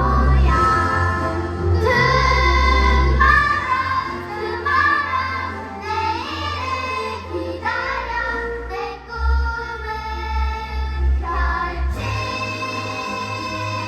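A song from a children's musical: young voices singing together over an instrumental backing track with a steady bass line.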